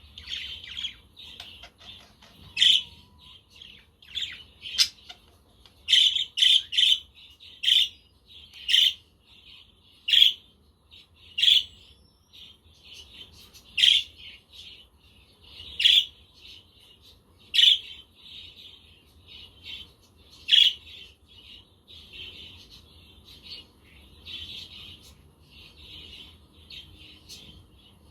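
A flock of budgerigars chirping and warbling in continuous chatter, with loud, sharp calls every second or two that stop about three-quarters of the way through, leaving softer chatter.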